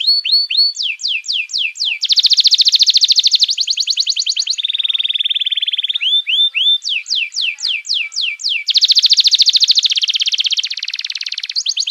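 Songbird song of the kind used for masteran training: high, fast trills alternating with runs of downward-sweeping whistled notes, in clean repeated phrases.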